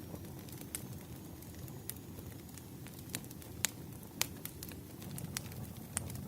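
Wood fire crackling in a fireplace: a low steady rumble with irregular sharp pops, the loudest two a little past the middle.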